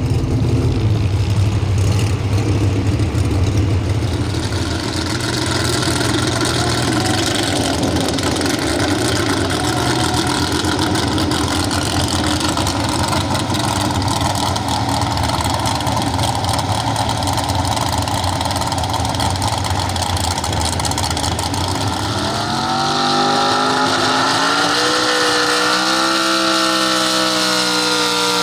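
Pro stock 4x4 pulling truck's engine running with a heavy low rumble, then near the end revving up, its pitch climbing and wavering.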